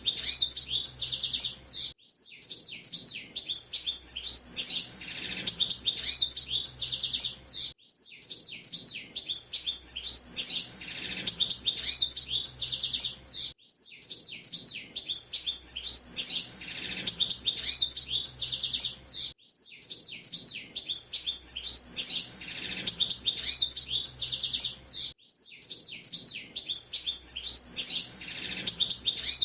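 Hooded siskin (pintassilgo) song: long, rapid, high-pitched twittering phrases, each about six seconds long, broken by short pauses about every six seconds.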